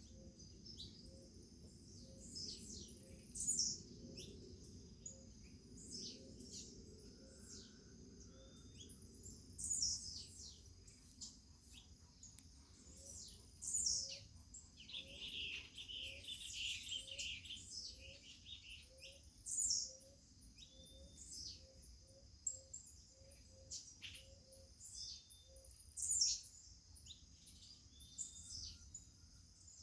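Several wild birds calling: loud, sharp down-slurred chirps every few seconds and a brief chattering song in the middle, over a steady high-pitched insect hum.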